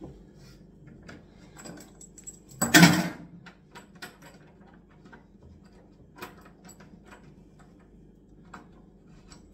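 Small metallic clicks and scrapes of a spanner working on the bolts that join two pieces of kitchen worktop, with one louder clatter about three seconds in.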